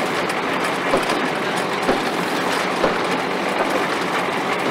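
Vintage threshing machinery running: a steady, dense mechanical clatter with a sharper knock about once a second.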